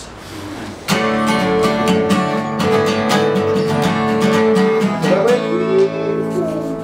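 Acoustic guitar strummed in a steady rhythm, starting about a second in after a moment of quiet, as the instrumental opening of a folk song.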